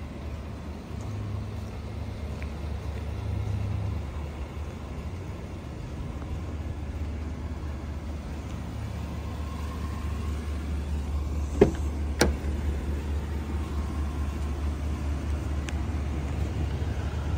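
2019 GMC Yukon XL's V8 engine idling with a steady low rumble. Two sharp clicks about half a second apart come near the middle.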